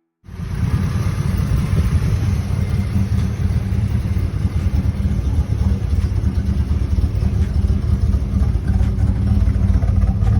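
A vehicle engine running with a loud, steady, deep rumble, cutting in abruptly just after the start.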